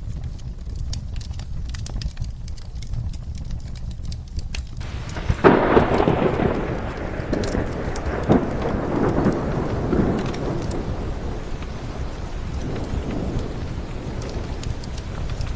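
Steady rain with fireplace crackles, broken about five and a half seconds in by a sudden clap of thunder that rumbles on in a few surges and fades away over the next several seconds.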